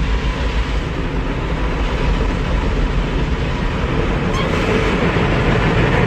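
Automatic car wash running, heard from inside the car: a loud, steady noise of the machinery and spray with a deep rumble underneath, growing a little brighter near the end.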